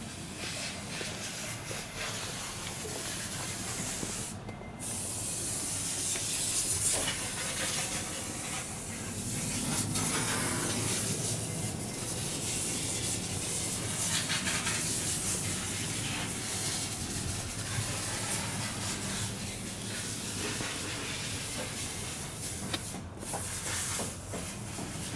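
Mitsubishi Fuso Canter's 4P10 four-cylinder turbo-diesel engine idling steadily, mostly heard as a loud even hiss that swells and fades over a low steady hum.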